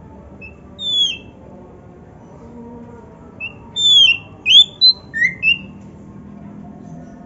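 Oriental magpie-robin (kacer) singing: a short whistled note about a second in, then a quick phrase of six or seven loud, clear, sliding whistles a couple of seconds later.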